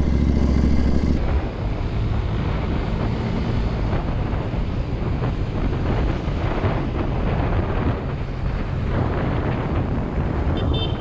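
Wind buffeting a motorcycle camera's microphone while riding, over the steady noise of the bike and road. A short high tone sounds near the end.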